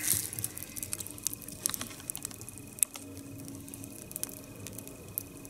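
Three-log nodya log fire burning, the wood crackling with irregular sharp snaps and pops, with a louder rustling burst right at the start.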